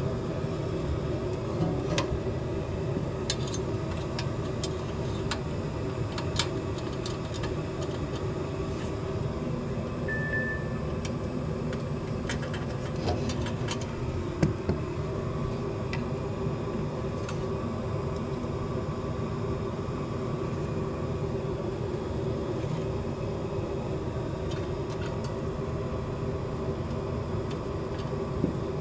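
Furnace running with a steady hum and rush of air, with scattered light clicks and taps of tools being handled and a short beep about ten seconds in.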